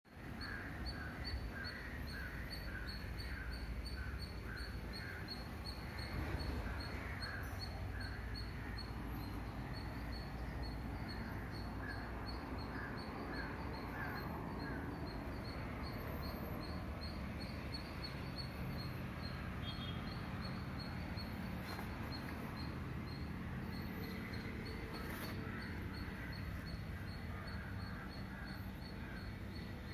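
Small birds chirping. One repeats a short high note about three times a second throughout, while another gives runs of lower chirps in the first half and again near the end, over a steady low background rumble.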